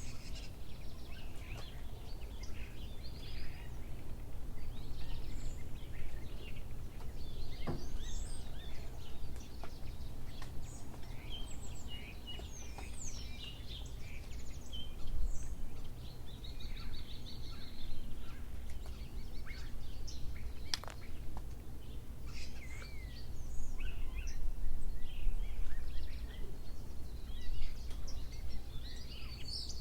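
Small birds chirping and singing, many short calls and quick whistles overlapping throughout, over a steady low rumble.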